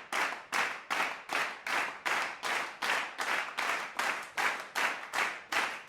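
A knife sawing back and forth through a crusty sourdough loaf, in quick even strokes of about two and a half a second, each a short rasp of the crust.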